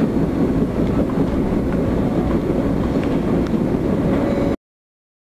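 Passenger train running along the track, heard from inside a coach: a steady low rumble with faint clicks that cuts off suddenly about four and a half seconds in.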